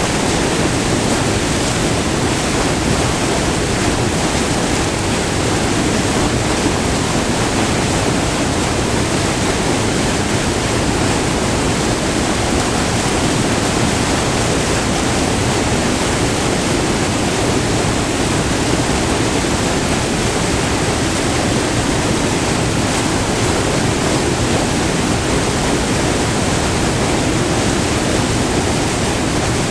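White water pouring over a short, multi-tiered river waterfall, recorded up close: a steady, even rush with no breaks.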